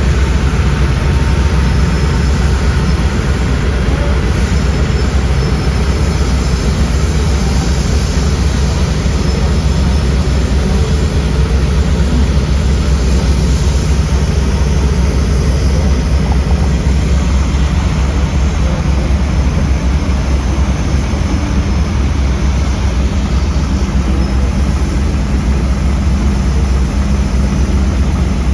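Heavy diesel engine of construction machinery running steadily with a deep, even low hum.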